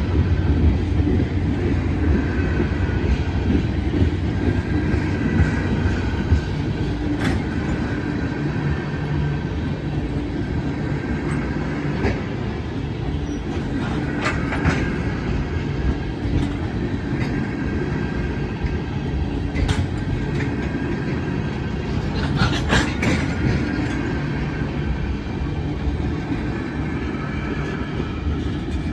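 Freight train of oil tank cars rolling past at a grade crossing: a steady low rumble of steel wheels on rail, with a few sharp clanks and faint high wheel squeals now and then.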